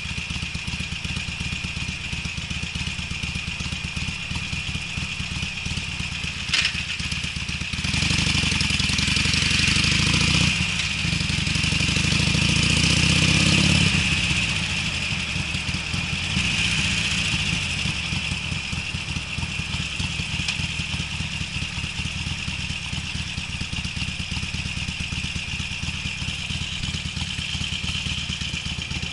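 Harley-Davidson Sportster's air-cooled V-twin running through Screamin' Eagle mufflers while the bike is ridden, a steady pulsing exhaust note. About eight seconds in it gets louder under throttle, the pitch climbs as it accelerates, and it eases off a few seconds later.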